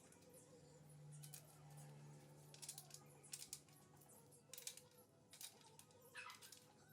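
Faint, scattered clicks and light taps, several in quick succession in places, over a faint steady low hum.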